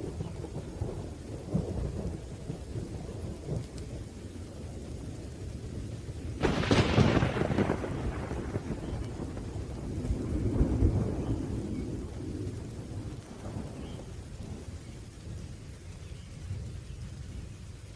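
Thunderstorm with steady rain and low rolling thunder; a louder thunderclap breaks about six and a half seconds in and rumbles away over a couple of seconds, with a smaller roll of thunder a few seconds later.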